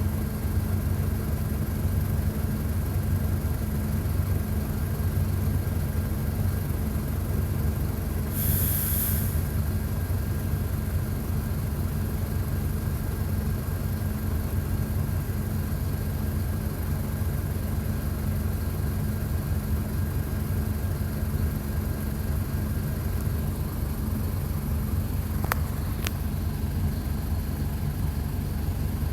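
Mercedes-Benz OF-1722 bus's six-cylinder turbodiesel engine running at a steady speed under the floor. There is a brief hiss of air about eight seconds in and two sharp clicks near the end.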